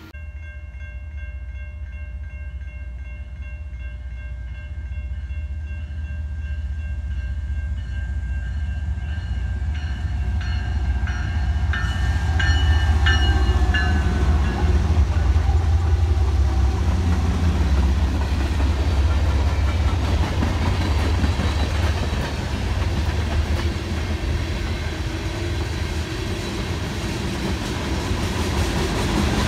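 Freight train with diesel locomotives approaching and passing: a deep engine rumble that grows louder over the first half, then the wash of passing cars and wheels on rail. In the first half a steady high tone of several pitches holds, then stops about fourteen seconds in.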